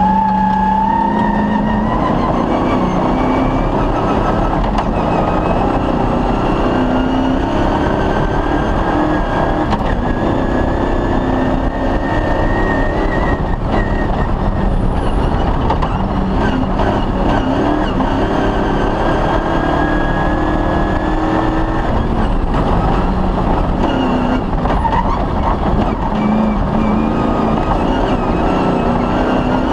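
Cross-country rally car driving on a special stage: steady engine and drivetrain noise with a whine that climbs slowly in pitch for over ten seconds, drops, then climbs again.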